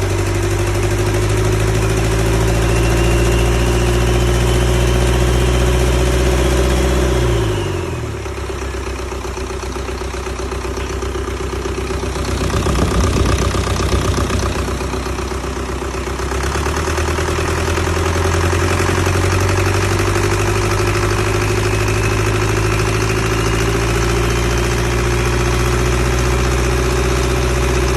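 Isuzu 4HK1-TC four-cylinder turbo-diesel engine running. About a quarter of the way in, its speed drops away and the steady engine note breaks up. A rougher, louder stretch follows near the middle. The engine then runs steadily again, its speed slowly climbing.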